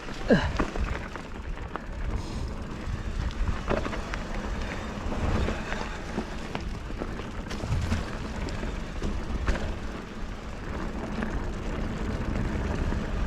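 Giant Fathom hardtail mountain bike riding down a dirt singletrack: steady low rumble from the tyres on the trail, with scattered clicks and rattles over bumps and a short falling squeak near the start.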